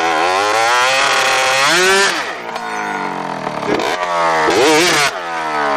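Small motorcycle engines revving hard, the pitch climbing and dropping again and again with throttle and gear changes as the bikes ride a timed lap.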